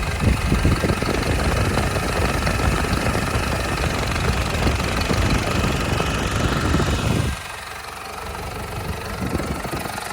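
4102QBZL four-cylinder turbo diesel engine running smoothly at raised revs, then dropping sharply back to idle about seven seconds in.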